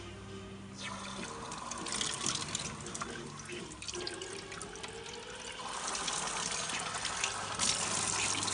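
Water running from a tap, starting about a second in and getting stronger in steps as the flow is opened up.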